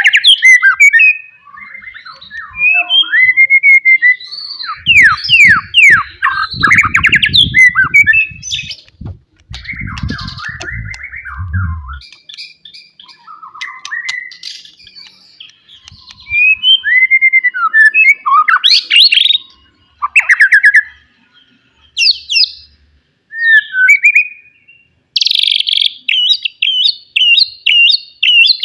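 White-rumped shama singing a loud, varied song of whistled phrases, quick slurred notes and trills, broken by short pauses. Near the end it switches to a fast run of repeated notes.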